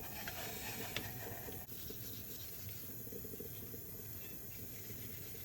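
Faint, steady scrubbing of a Bonstar steel-wool soap pad on an aluminium mess tin, rubbing off smoking stains, with a small click now and then.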